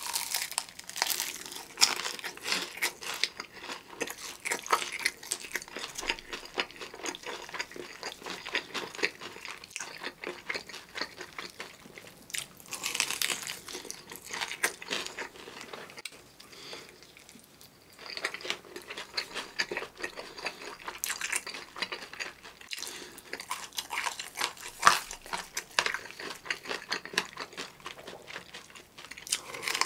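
Close-up eating sounds of seasoning-coated crispy fried chicken drumsticks: crunchy crackling bites of the fried coating and chewing. There is a short pause of about two seconds near the middle.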